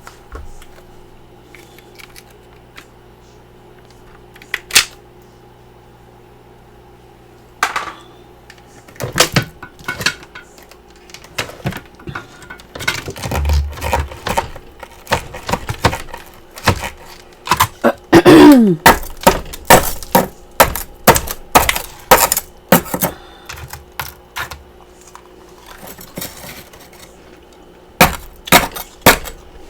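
Close-miked crunching of freezer frost and ice chunks being bitten and chewed: irregular sharp crunches, sparse at first and then coming thick and fast from about a third of the way in, with a short falling squeak a little past the middle. A low hum runs under the start and stops when the crunching picks up.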